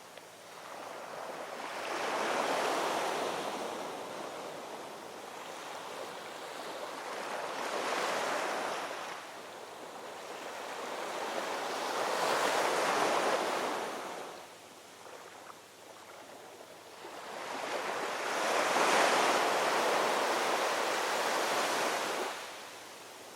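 Ocean waves breaking and washing ashore, each swell rising and falling every few seconds, with about four surges; the last and longest one cuts off sharply just before the end.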